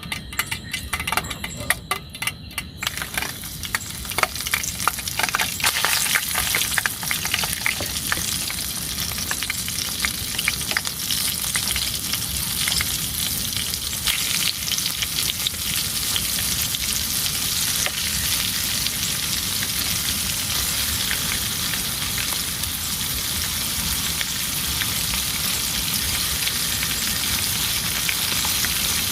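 Heavy rain setting in: scattered drops over the first few seconds quickly thicken into a steady, dense downpour.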